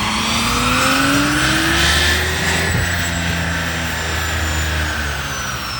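Car engine pulling hard under load, its pitch and a high whine climbing steadily, then easing off about three seconds in, leaving a low rumble while the whine slowly falls.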